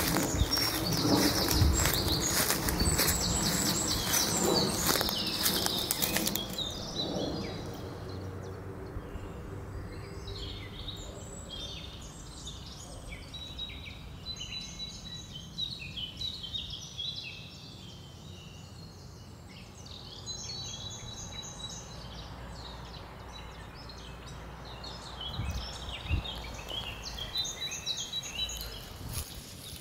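Woodland songbirds chirping and singing in short repeated phrases, with a few held whistled notes. The first six seconds are louder, a rough noise full of clicks that cuts off abruptly, and footsteps on the path come in near the end.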